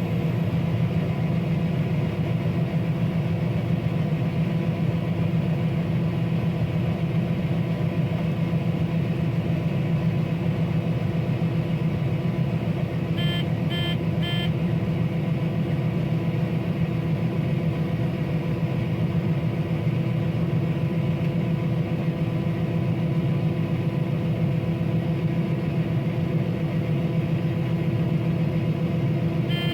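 Combine harvesting corn, heard from inside the cab: a steady engine and machinery drone with a low hum and several steady tones. About halfway through come three short, high beeps, and more beeps at the very end.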